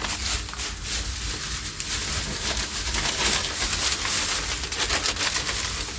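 Plastic food bags rustling and crinkling as they are handled and packed away, over a steady low hum.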